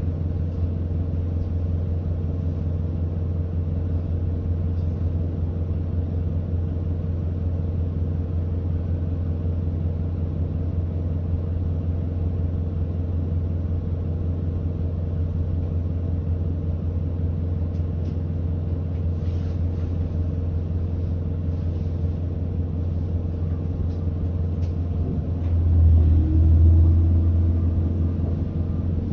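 Hino Blue Ribbon city bus's diesel engine idling at a stop, heard from inside the bus as a steady low hum. Near the end, the hum swells louder for about two seconds.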